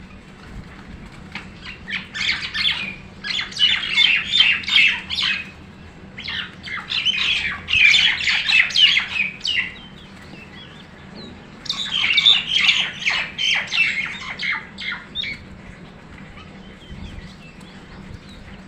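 Birds squawking harshly in three bouts of rapid, scratchy calls, the sound of birds fighting.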